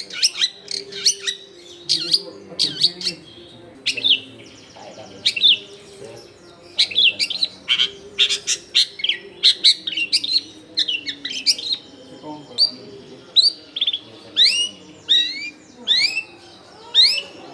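Long-tailed shrike (cendet) in full song: a fast, continuous run of sharp sweeping notes. Toward the end these turn into quick steeply rising chirps.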